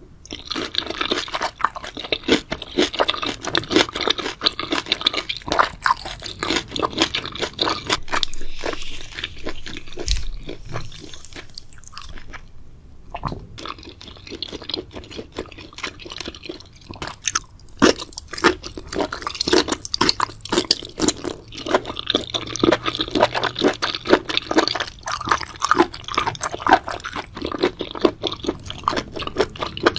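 Close-miked chewing of crunchy food: rapid, dense crunching and crackling bites, with a short lull about halfway through.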